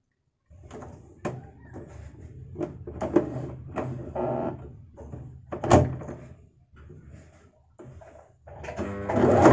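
Clicks, knocks and rustling from handling a portable sewing machine as it is set to step B of a four-step buttonhole. Near the end the sewing machine's motor starts and runs up into steady stitching.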